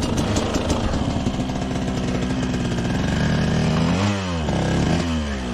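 Two-stroke dirt bike engine running at a fairly steady pitch. About four seconds in, the throttle is let off and opened again, so the pitch drops, rises and drops.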